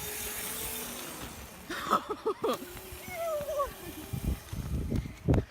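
A small mini motorcycle's motor running with a steady whine that drops in pitch about a second in, then holds steady again. Short bursts of voices and a brief squeal break in around the middle and near the end.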